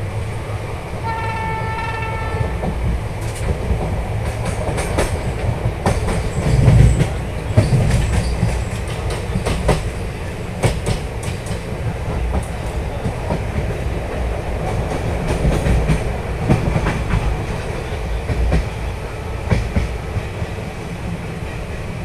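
Passenger express train running at speed, heard from the coach doorway: a steady rumble with wheels clattering over rail joints and points. About a second in, a train horn sounds once for nearly two seconds.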